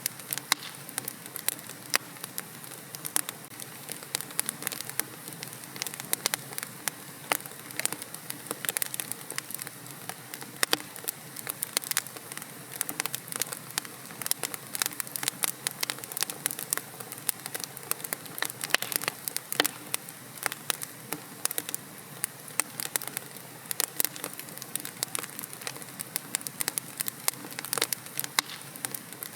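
Wood fire burning in a fireplace, with many irregular sharp crackles and pops over a steady low hiss.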